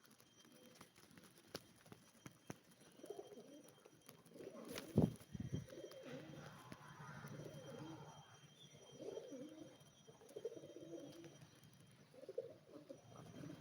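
Birds cooing in low, warbling calls that run on from about three seconds in, with one sharp knock about five seconds in.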